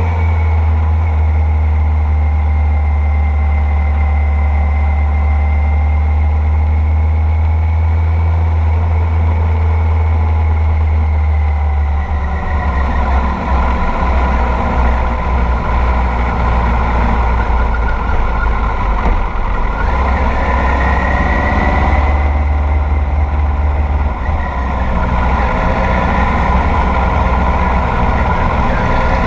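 Kawasaki GPZ900R's inline-four engine running under way, heard from on the bike, its pitch rising and falling with the throttle, over a heavy low rumble.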